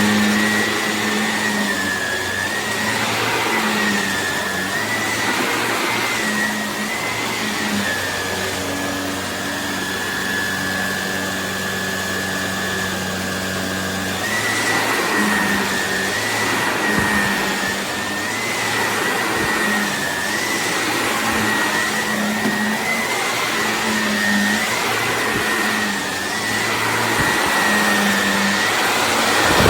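Shark Navigator Lift-Away Deluxe NV360 upright vacuum cleaner running steadily, its motor whine wavering slightly in pitch over a low hum.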